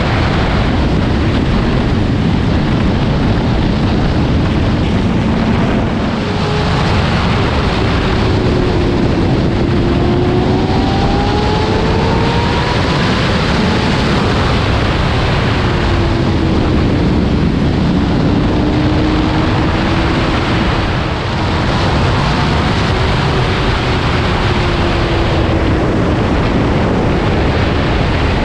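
Superbike engine running under way, its pitch slowly rising and falling with the throttle, under a loud, steady rush of wind on the microphone.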